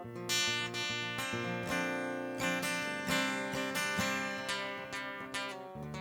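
Acoustic guitar playing an instrumental passage: a steady run of plucked notes and strummed chords, several attacks a second.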